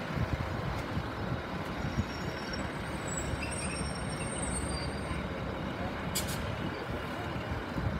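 Northern passenger train moving slowly along a far track: a steady rumble, with faint high squeals about three to four seconds in.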